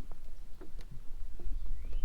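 Footsteps walking on a trail, a series of irregular soft steps over a steady low rumble. A faint rising whistle comes near the end.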